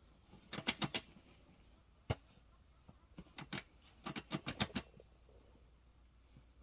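A series of sharp clicks or knocks in short bursts: about four together near the start, a single one a little later, then a few more and a quick run of about six near the middle.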